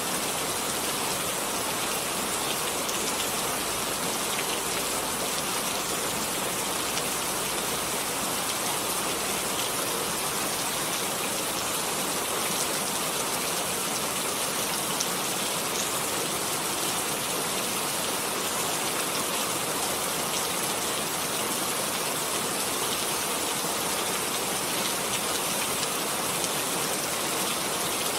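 Steady rain falling, an even hiss with faint individual drops ticking on a surface.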